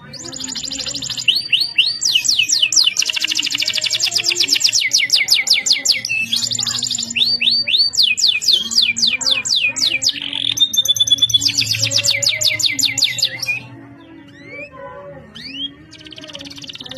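Domestic canary singing: long, very fast rolling trills and rapid runs of repeated notes, high-pitched. About three-quarters of the way through it pauses for a couple of seconds, broken only by a few short rising chirps, before the trilling starts again near the end.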